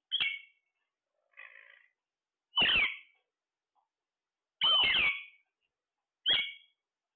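A parrot squawking: four loud, short, shrill calls a second or two apart, and one fainter call about 1.5 s in.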